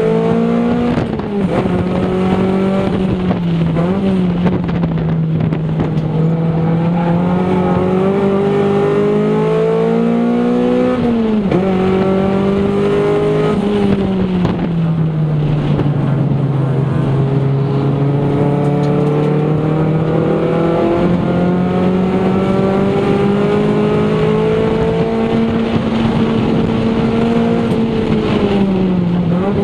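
A Toyota Celica GT's four-cylinder engine, heard from inside the cabin, driven hard at high revs. Its pitch rises and falls as the throttle is lifted and reapplied, with sharp drops about 11 and 14 seconds in and a long steady climb through the second half that falls away near the end.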